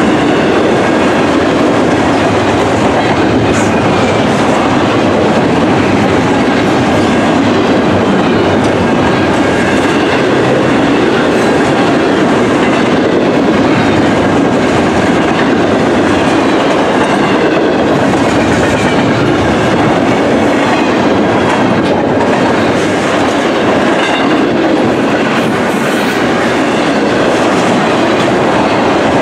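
Double-stack intermodal freight train's well cars rolling past close by: a loud, steady noise of steel wheels on rail.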